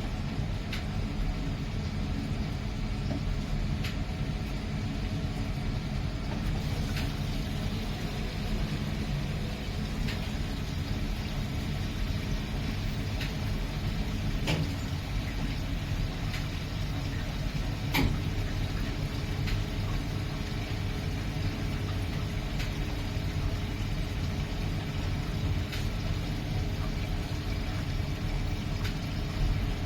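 Miele PW 6080 commercial washing machine running, a steady motor hum and drum rumble, with a few sharp clicks, the loudest about eighteen seconds in.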